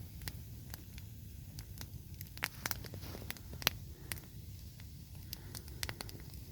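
Campfire of dry willow wood crackling, with irregular sharp pops over a low steady rumble.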